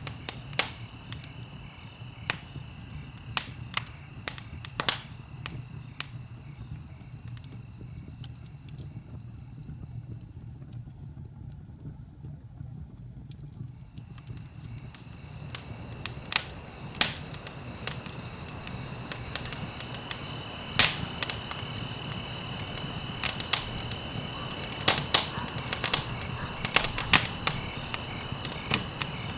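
Wood fire crackling in a fireplace, with sharp irregular pops over a low steady rumble of burning. The pops grow denser and louder in the second half.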